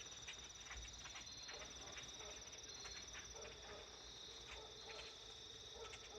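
An evening insect chorus of crickets trilling steadily, with faint short chirps scattered through it from a flock of birds gathering in nearby trees.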